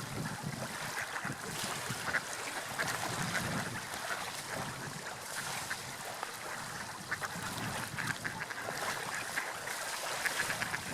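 Seagulls calling repeatedly, short squawking calls over a steady wash of sea wind and waves.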